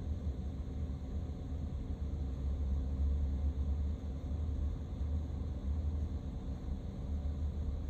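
Steady low vehicle rumble with a faint engine hum, unchanging throughout.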